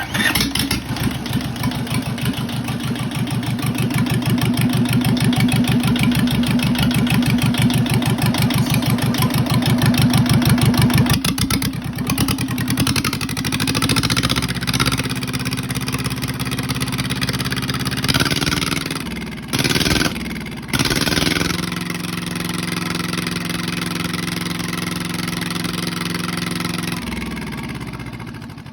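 Yanmar 2T75HL two-cylinder engine starting straight away and running briskly, then settling to a lower steady idle. It cuts out briefly twice about twenty seconds in, then runs down to a stop near the end.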